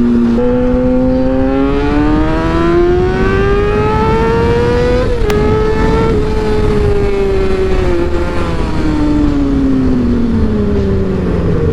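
Motorcycle engine under way, rising steadily in pitch as it accelerates for about five seconds, dipping briefly at a gear change, then slowly falling as the throttle eases off, over steady wind and road noise.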